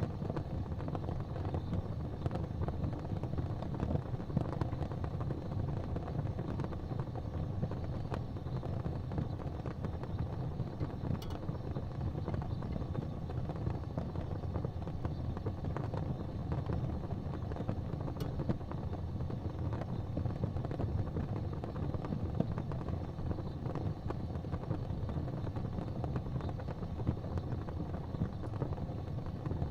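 Fire burning in a fireplace: a steady low rumble of flames with a constant fine crackle and a couple of sharper pops, one about a third of the way in and one a little past the middle.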